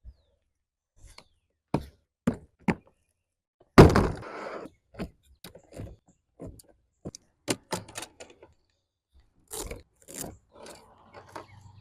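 A series of sharp knocks and clicks, with one louder thump about four seconds in.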